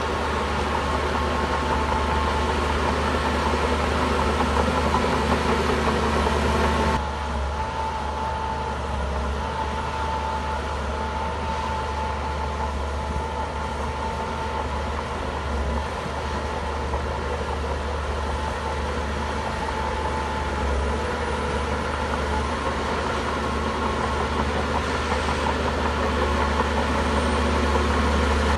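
Shantui bulldozer's diesel engine running steadily under work, with a thin whine over the low engine hum. The sound changes abruptly about seven seconds in and then runs on steadily.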